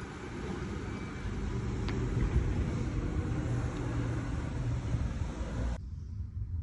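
Steady low vehicle rumble with a hiss above it; the hiss cuts off abruptly near the end while the rumble carries on.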